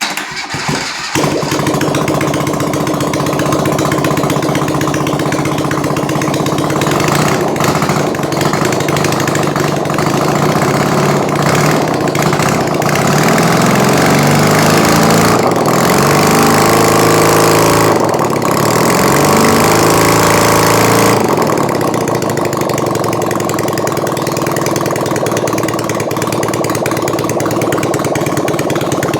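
BMW R65's air-cooled flat-twin engine catching in the first second, then running. The engine speed rises and falls in the middle stretch, then settles back to a steady idle.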